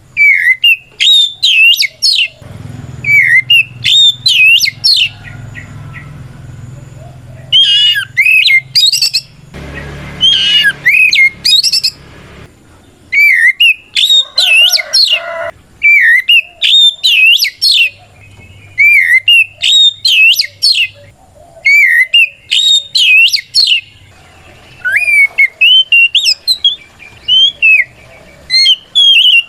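Oriental magpie-robin (kacer) singing loud, rapid whistled phrases in repeated bursts with short pauses between them. This is the challenging song a male uses to call out a rival.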